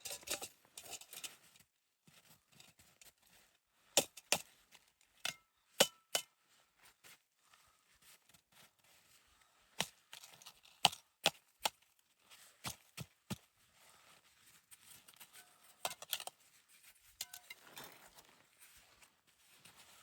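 A series of sharp chopping knocks, about a dozen, irregularly spaced with quiet gaps between them.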